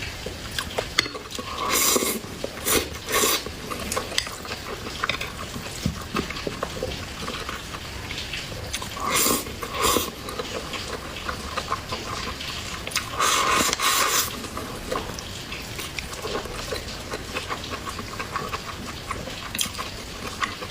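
Close-miked eating sounds: wet chewing and mouth smacking, with louder wet bursts about two, nine and thirteen seconds in.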